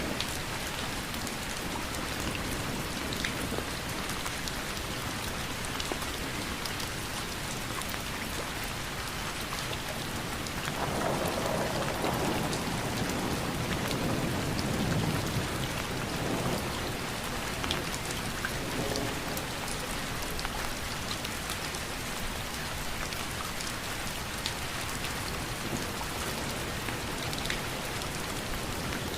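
Steady rain falling, with scattered individual drops ticking. About eleven seconds in, a low rumble swells up for several seconds and then fades back into the rain.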